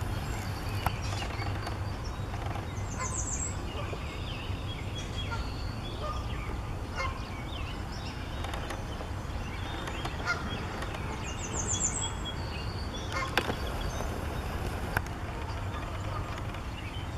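Birds calling and chirping in short scattered notes, with a couple of brief high trills, over a steady low rumble; a few sharp clicks stand out.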